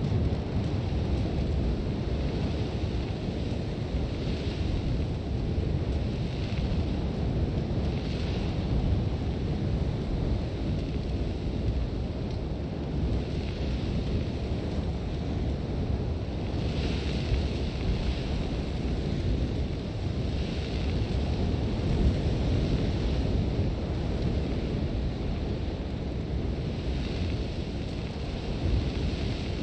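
Sandstorm wind blowing steadily and deep, with swells of hissing, blowing sand every few seconds.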